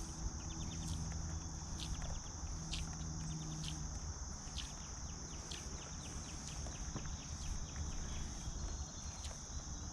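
Steady high-pitched drone of summer insects, with short clicking trills repeating over it. A low hum fades out about four seconds in.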